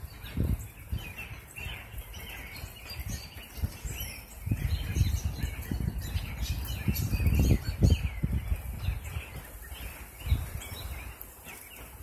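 Many birds chirping and calling in short notes, over low rumbling bumps on the microphone that are loudest about halfway through.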